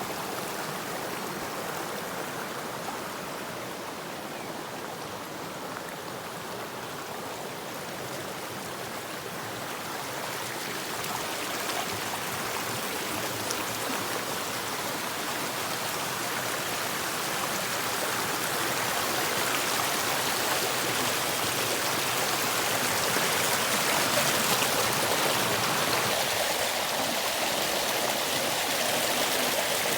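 Flowing water of a stream, a steady rushing that grows louder and brighter from about ten seconds in.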